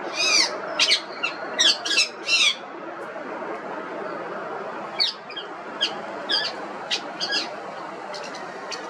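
Indian ringneck parrot giving a run of short, sharp, high calls in two bursts, one at the start and another about five seconds in, over a steady low background noise.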